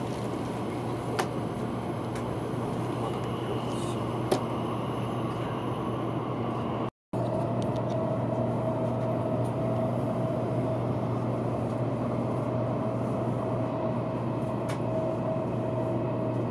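Steady rumble and hum inside the cabin of a Taiwan High Speed Rail train running along. There are a couple of light clicks early on, a brief dropout about seven seconds in, and a steady whine through the rest.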